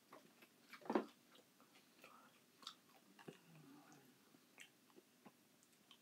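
Faint chewing and lip smacking of a person eating soft crushed pineapple, with light clicks of a plastic spoon in the tin can. The loudest sound is a single sharp smack about a second in.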